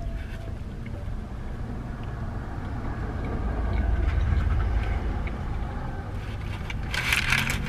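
A man chewing a mouthful of food close to the microphone over a low steady rumble inside a car, with a short burst of clatter or rustle about seven seconds in.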